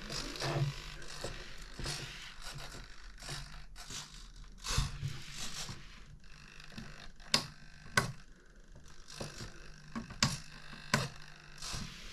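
Small servos in a two-channel RC glider twitching: short faint buzzes come and go among irregular small clicks and a few sharper knocks, which the owner calls chatter.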